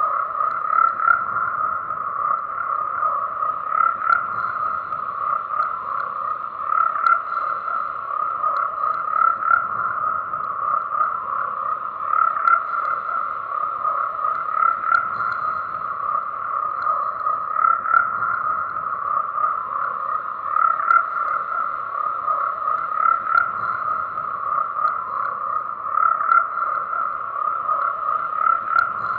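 Frogs croaking in a dense, continuous chorus, many calls overlapping without a pause.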